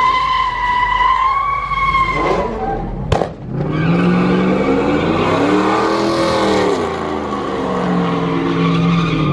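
Car tyres squealing in a steady high-pitched screech. About three seconds in there is a sharp click, then a car engine runs with its pitch rising and then falling over a few seconds.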